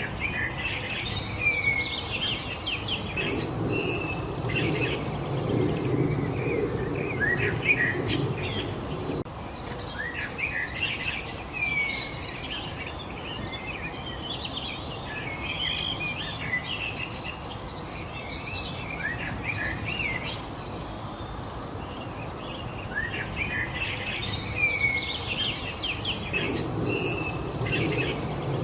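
Several songbirds chirping and singing at once, with many short overlapping calls and whistles over a steady background hiss. A low rumble sits underneath from about three seconds in for several seconds, and again near the end.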